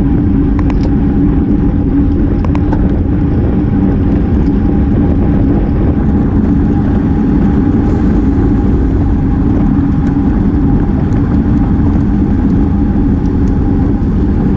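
Steady wind rush and road noise on a GoPro's microphone riding at speed on a road bicycle, with a constant hum and a few faint clicks in the first few seconds.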